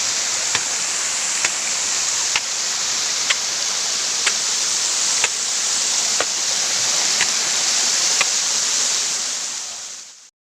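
Steady rush of water, like a waterfall or fast stream, with a sharp click about once a second; the sound fades out near the end.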